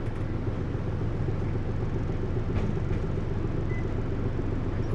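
Hino U-HT2MLAA route bus heard from inside the cabin, its engine and drivetrain running with a steady low rumble. The recordist describes this bus's running sound as tending toward abnormal noise, close to how a sister bus sounded near the end of its service life.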